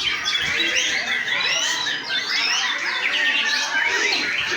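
Many white-rumped shamas (murai batu) singing at once: a dense, unbroken tangle of overlapping whistles, trills and chirps, the full-field chorus of a songbird contest.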